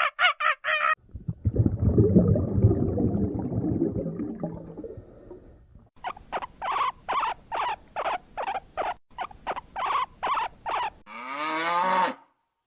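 A string of different farm animal calls, one clip after another: a quick run of pitched calls at the start, a few seconds of low rough grunting, then about a dozen short calls two a second, and a longer call near the end that cuts off suddenly.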